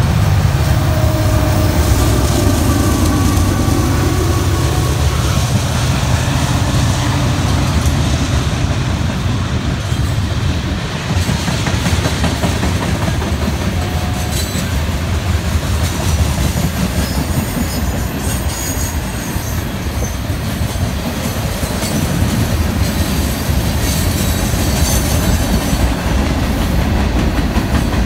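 Norfolk Southern freight train passing close by. Its mid-train diesel locomotives run with a heavy rumble for the first ten seconds or so, then tank cars, boxcars and hoppers roll past with steady wheel clatter over the rail joints and occasional faint high wheel squeals.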